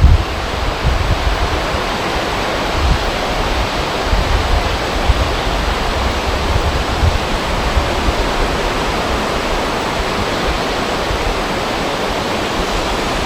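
Steady rushing noise of wind over a river's flowing water, with some low wind rumble on the microphone.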